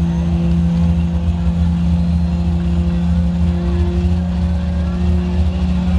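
An Audi S4 (B5) and a built Toyota Supra idling side by side at a drag strip's starting line. Their engines make a steady low drone, with no revving or launch.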